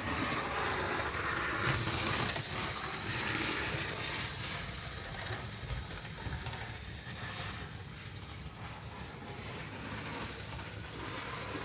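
Fleischmann model of an NS 1200-series electric locomotive running on the layout track: steady whirr of its motor and gears with the wheels rolling on the rails, growing somewhat fainter in the second half.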